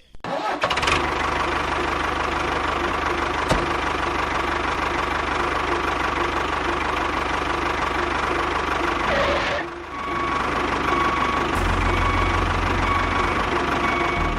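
Small motor of a DIY mini tractor running steadily with a rattling, knocking texture. It breaks off briefly about two-thirds through, then runs again with a deeper hum added near the end.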